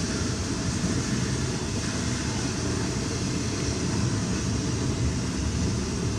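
Intermodal freight train's container cars rolling steadily past a grade crossing, a constant low rumble of wheels on rail heard from inside a car.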